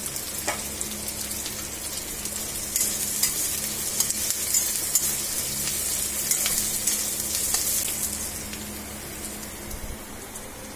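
Chopped onions and green chillies sizzling in hot oil in a steel kadai, stirred with a steel spatula that scrapes and taps against the pan now and then. The sizzle eases a little near the end.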